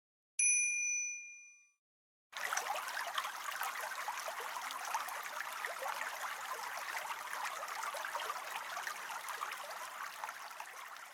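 A single bright chime ding that rings and fades over about a second. After a short silence, a steady hiss full of tiny clicks starts up and carries on.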